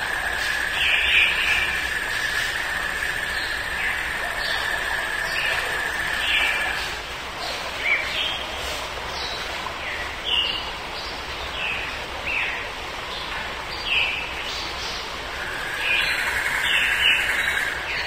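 Recorded forest ambience of birds chirping, with short high calls about every second. A steady high trill is held for several seconds at the start and again near the end.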